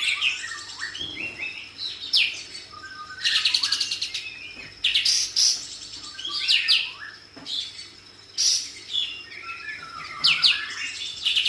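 Pied triller (kapas tembak) singing in repeated phrases every two to three seconds. Each phrase is a fast, rattling high trill followed by a few lower stepped notes.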